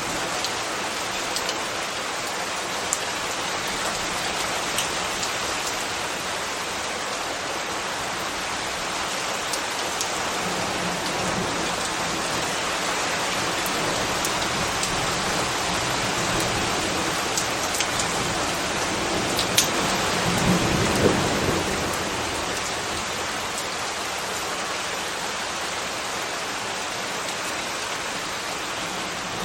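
Steady rain pattering on hard surfaces, with scattered sharper drip clicks. About twenty seconds in, a low rumble swells and fades over a couple of seconds.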